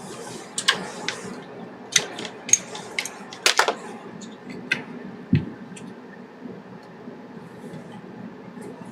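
Irregular small clicks and clinks, like tools or small metal parts being handled and set down on a workbench, over a steady low hum. There is a cluster of clicks around three and a half seconds in and a duller knock just after five seconds; after that only the hum and a few faint ticks remain.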